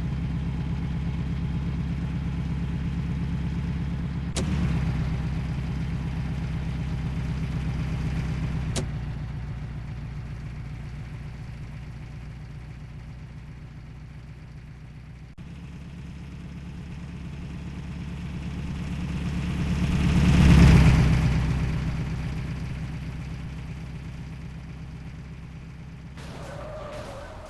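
Heavy load truck's engine running steadily, with a few abrupt jumps in the sound. About two-thirds of the way through, a truck passes close by, swelling to its loudest and then fading away.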